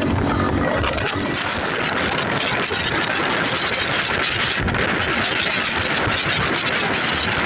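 Yamaha TW200's single-cylinder engine running, under a steady rushing hiss.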